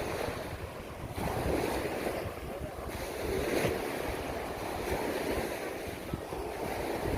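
Sea waves washing onto a beach, with wind buffeting the microphone in a low, gusty rumble.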